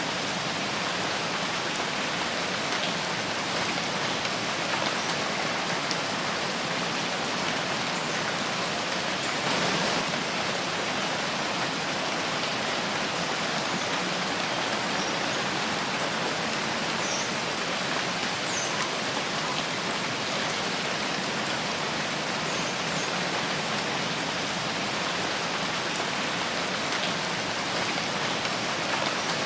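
Steady rain falling in a forest, a dense even hiss of drops with scattered small individual drop ticks.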